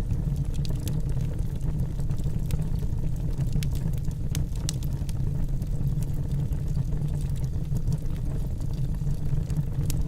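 Wood fire burning in a fireplace: a steady low rumble of the flames with scattered sharp crackles and pops of the burning logs.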